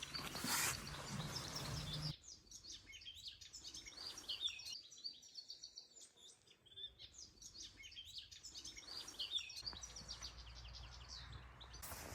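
Small birds chirping and singing, many short high chirps overlapping, with a low hum underneath in the first couple of seconds and again near the end.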